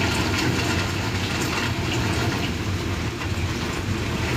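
Rain falling steadily: an even hiss with a low rumble underneath and a few faint drip-like ticks.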